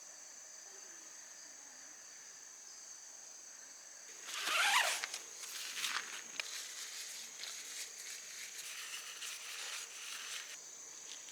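Steady high-pitched trilling of insects at an outdoor campsite. From about four seconds in, a louder burst of rustling is followed by scattered light clicks and handling noises.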